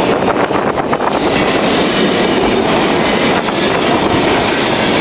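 Empty centerbeam lumber flatcars of a freight train rolling past, a loud steady rumble of steel wheels on rail with clicks over the rail joints.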